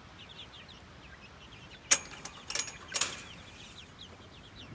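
Eight-week-old chicks peeping softly, many short falling chirps. A few sharp clicks or knocks cut in, the loudest about two seconds in and another near three seconds.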